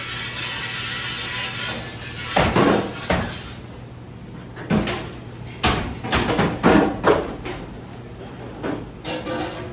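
A steady rushing noise that dies away, then a run of sharp knocks and clatters, about eight of them at uneven spacing.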